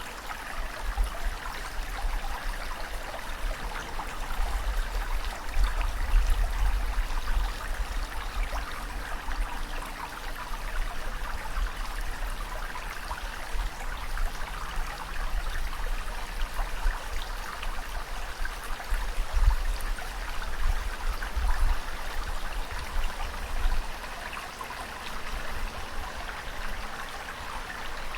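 Continuous rushing, splashing water with a deep rumble underneath that swells now and then.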